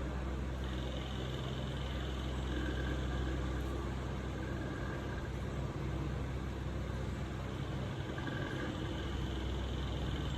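A steady low mechanical hum, like a motor running, with no clear change.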